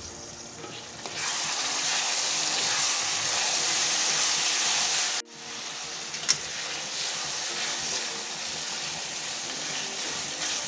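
Chopped tomatoes frying in hot oil with onions in an aluminium kadai, a steady sizzle while a spatula stirs them. The sizzle rises about a second in, drops off suddenly about five seconds in and carries on quieter, with one sharp tap about six seconds in.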